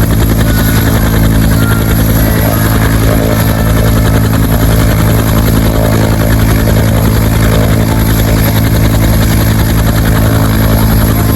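Loud, steady helicopter sound with rotor and engine running at a constant pitch, with no change throughout.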